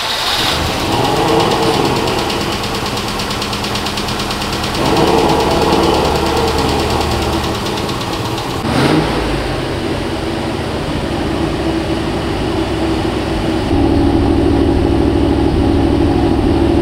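Range Rover Classic's carburetted Rover V8 petrol engine running on its first run after an oil and filter change, at idle and light revs. Its sound steps up about five seconds in and again near the end.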